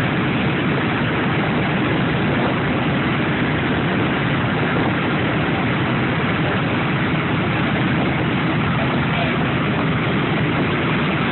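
B-17 Flying Fortress's Wright R-1820 Cyclone nine-cylinder radial engines running steadily at idle after start-up, a dense, low, even drone.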